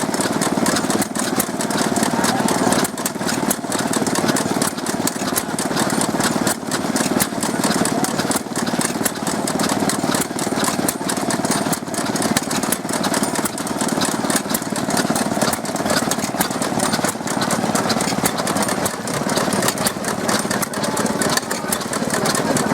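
Early Stewart Little Wonder stationary engines running steadily, with a fast, even beat of exhaust strokes.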